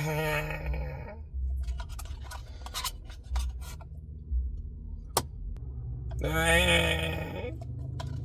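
A man's drawn-out, wordless vocal sound with wavering pitch near the start and again about six seconds in. Between them comes a run of short scrapes and clicks, over a steady low hum.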